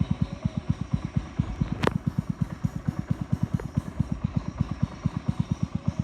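Boat engine running steadily, a low, even thumping of about eight beats a second. A single sharp knock about two seconds in.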